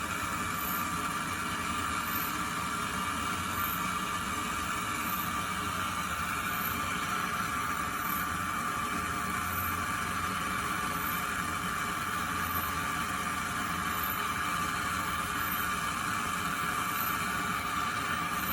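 Steady mechanical hum and whir, unchanging throughout.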